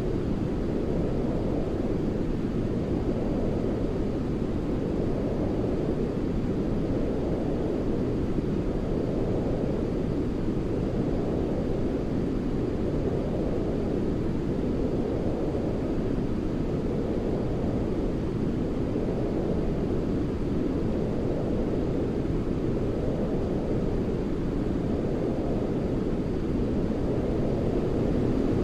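Continuous sleep-noise track for soothing a baby: a steady, deep rushing noise weighted toward the low end, like brown noise, gently swelling and easing every few seconds.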